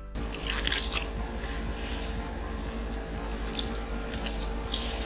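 Close-miked biting and chewing of fried chicken, with several short crisp bites, the loudest about three-quarters of a second in.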